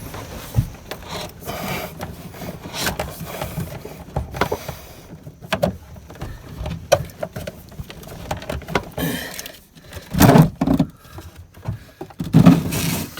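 Old boat steering cable being pulled through its run inside the hull, with a rope tied to its end, scraping, rustling and knocking irregularly against the surrounding structure. Louder bursts come about ten and twelve and a half seconds in.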